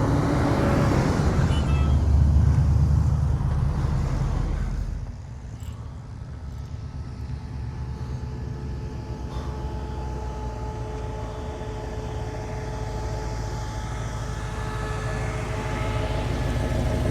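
Cars driving slowly past at close range: a loud low engine sound that fades away about five seconds in, then a quieter steady engine hum that builds again near the end as another vehicle comes closer.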